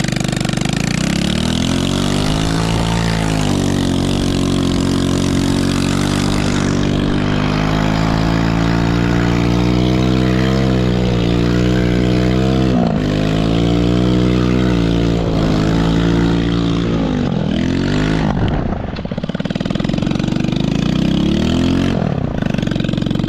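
Small Chinese 110cc ATV's single-cylinder four-stroke engine running hard, its pitch rising and falling with the throttle. About seventeen seconds in it drops off briefly, then revs back up.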